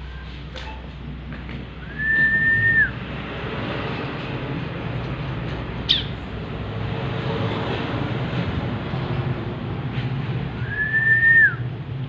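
Two long, level whistles, identical in pitch and length and about eight seconds apart, as if whistling to a pet bar-winged prinia. Midway between them comes one short, sharp chirp that falls quickly in pitch.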